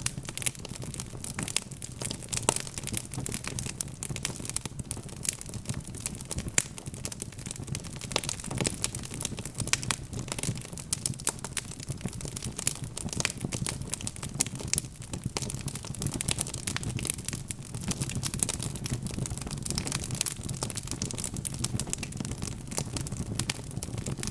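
Burning logs crackling in a fireplace: a steady stream of sharp pops and snaps over a low, even rumble of the flames.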